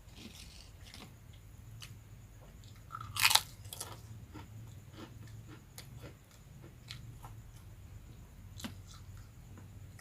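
Close-up eating: one loud crunch just after three seconds as crispy rambak cow-skin crackers are bitten, then chewing with small crunches and mouth clicks.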